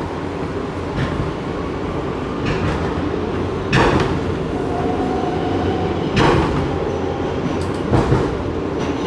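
New York City subway car running along the track, heard from inside the car: a steady rumble with several sharp knocks over the rail joints and a short steady tone near the middle.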